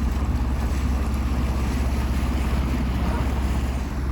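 A sailboat's engine running steadily under way, a low even drone, with wind and water noise over it.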